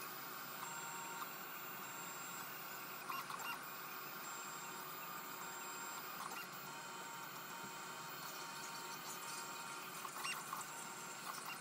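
3D printer running: its stepper motors whine in thin steady tones that shift and switch as it moves, with a few short clicky flurries.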